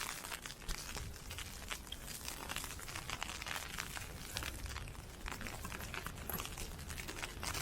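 Ice pellets pelting a fabric umbrella canopy: a dense, irregular crackle of many small ticks, over a steady low rumble.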